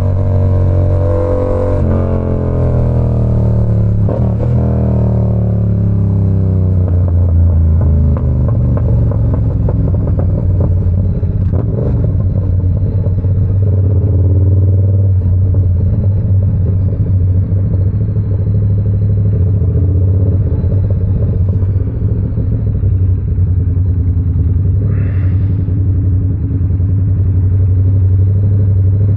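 Yamaha R7's 689 cc parallel-twin engine running through an SC Project CR-T exhaust while riding. The engine note shifts in pitch over the first few seconds, then holds a steady, deep drone at speed.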